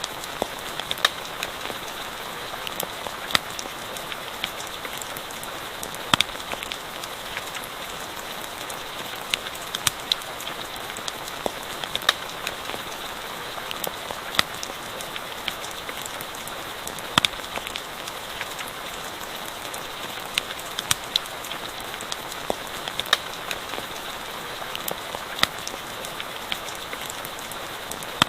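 Steady rain hissing evenly, with a wood campfire crackling over it in irregular sharp pops every second or two.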